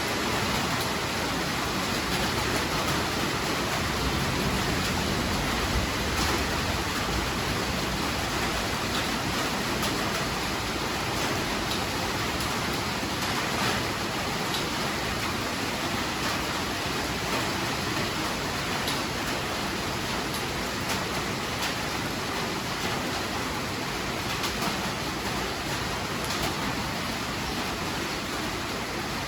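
Heavy rain falling steadily: a dense, even hiss with faint sharper drop taps scattered through it.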